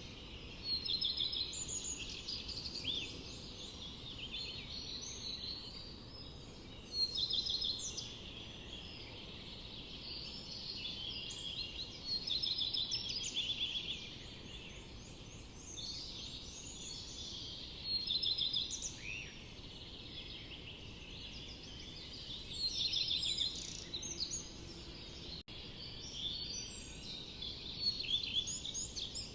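Several small songbirds singing in a forest, a dense chorus of overlapping trills and chirps, with louder phrases coming about every five seconds over a steady low background hiss.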